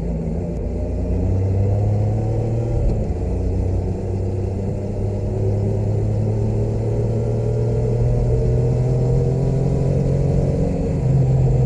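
Motorcycle engine running steadily on the road. Its pitch rises about a second in, holds, and shifts again near the end.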